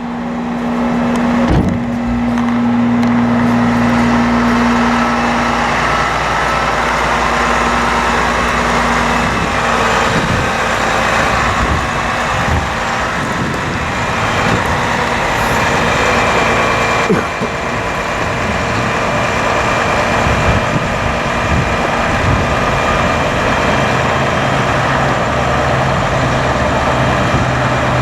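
Hydraulic boom of a bucket truck being operated, with the truck's diesel engine running steadily to drive the pump. There is a constant mechanical hum and hiss whose pitch shifts as functions change, and a sharp clunk about two seconds in and another just past halfway.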